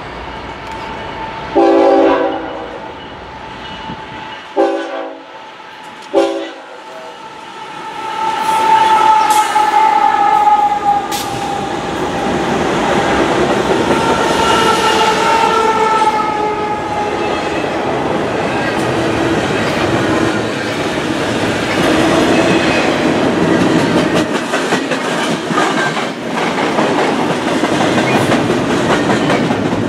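Train horn sounding three blasts, a longer one about a second and a half in and two short ones near 4.5 and 6 seconds, then the train passing close by, loud and steady for the rest, with a few ringing tones that slide down in pitch.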